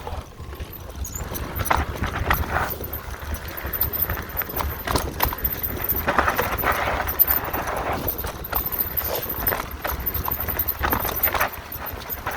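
Mountain bike riding down a rough singletrack trail: tyres on dirt and rock, with the bike clattering in irregular knocks over bumps.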